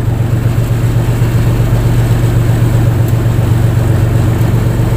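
Fishing boat's engine running steadily, a loud, unbroken low drone.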